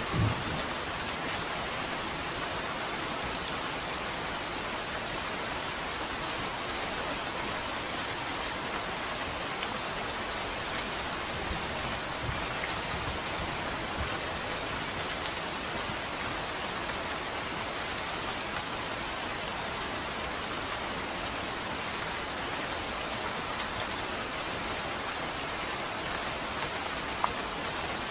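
Steady, dense rain falling and pattering on a surface, with one louder knock just at the start and a single sharp drop tick near the end.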